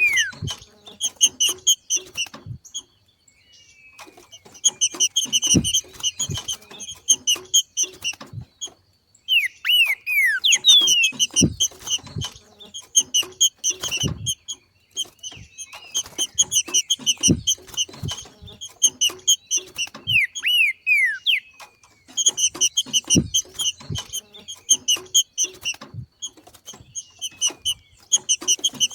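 Green-winged saltator (trinca-ferro) macheando: bouts of fast, repeated short call notes a few seconds long, broken by brief pauses. A few downslurred whistles come in between, and there are occasional low thumps.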